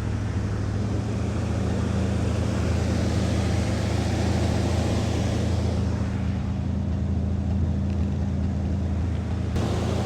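1981 Corvette's 350 V8 running steadily just after starting. The engine has a vacuum leak from a small hole in a broken vacuum line.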